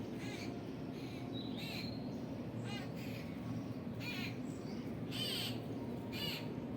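Birds calling: a string of short, high calls, more than one a second, over a steady low background hum.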